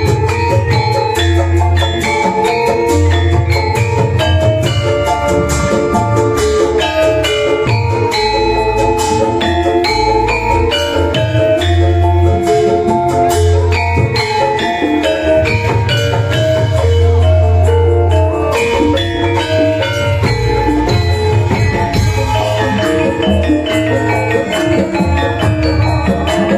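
Javanese gamelan playing through a sound system: bronze metallophones struck with mallets in quick overlapping note patterns over heavy low beats.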